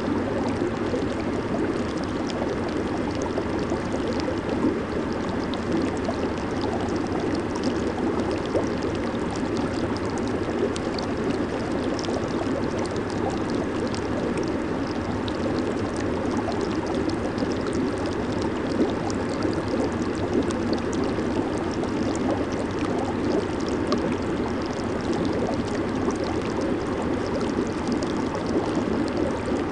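Jacuzzi hot tub with its jets running: a steady rush of churning, bubbling water, flecked with small crackles of bursting bubbles.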